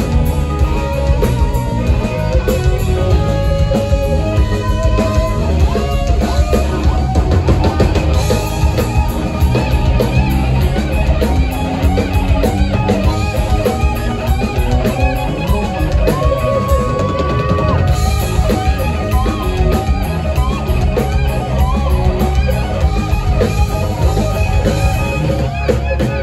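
Live rock band playing, with electric guitar and a drum kit; a guitar holds a long bent note about two thirds of the way through, and the music stops abruptly at the very end.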